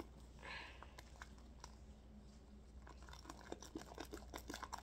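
Faint sticky crackling and scattered small clicks of glue slime being worked in a bowl, with a brief soft hiss about half a second in.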